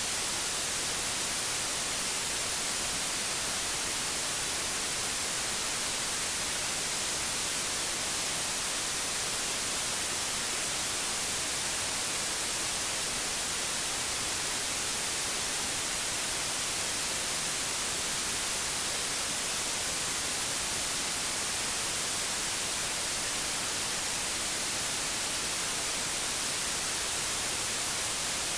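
Steady synthetic white noise: an even hiss, brightest in the high frequencies, with no changes.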